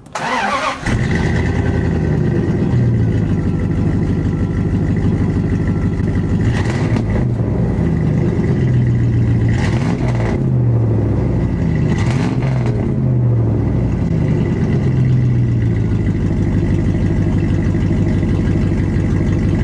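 A 1999 Dodge Ram's 318 (5.2-litre) V8 starts up about a second in and then runs steadily through a freshly fitted Flowmaster Super 40 muffler, with its pitch shifting a few times.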